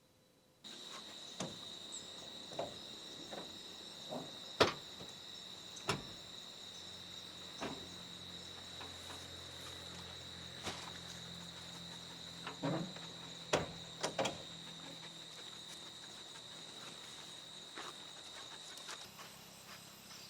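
Forest ambience with a steady high-pitched insect drone, which begins suddenly just under a second in and stops shortly before the end. Irregular sharp clicks and knocks sound throughout, about a dozen in all.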